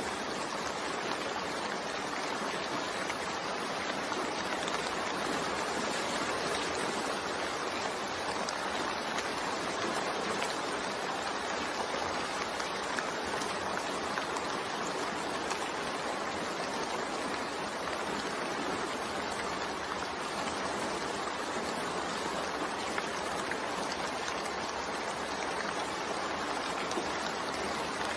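Steady, continuous rain, an even hiss of falling water with no single drops or thunder standing out.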